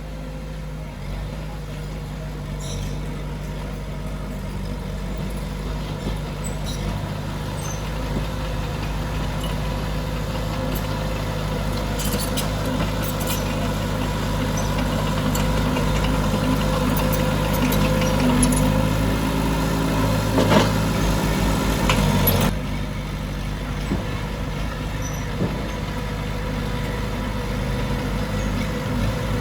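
Diesel engine of heavy earthmoving machinery running steadily, building up in load and loudness, then easing off suddenly about two-thirds of the way through. A few metallic clanks come during the louder stretch.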